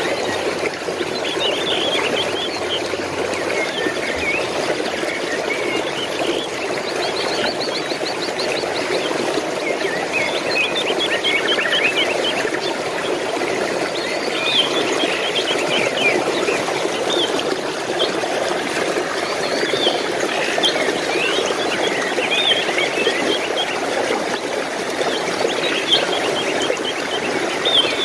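Running water flowing steadily, with small birds chirping and trilling throughout, including a fast, high trill about eight seconds in.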